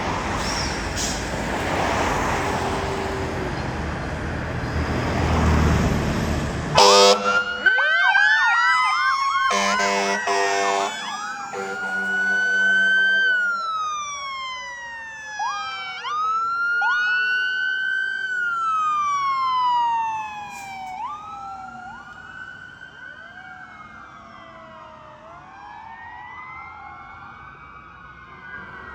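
Heavy fire apparatus going by with engine and road noise, then two blasts of a low horn about seven and ten seconds in and several emergency sirens wailing together in overlapping rising and falling sweeps. The sirens grow fainter over the last third as the trucks move away.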